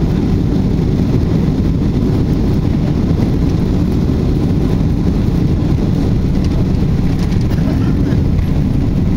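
Boeing 747-400 heard from inside the passenger cabin: a steady, loud, deep rumble of engines and airflow that does not rise or fall.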